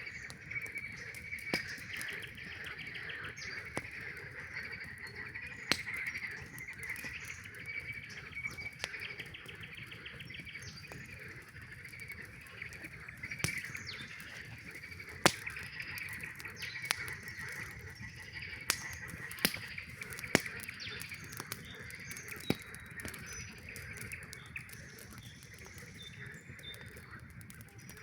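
Chorus of frogs calling steadily, with trilled stretches, over the crackling and sharp pops of a campfire.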